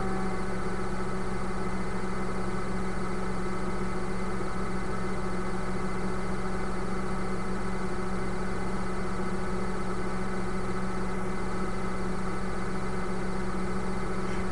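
Microwave oven running with a steady electrical hum, heating a whole egg in its shell.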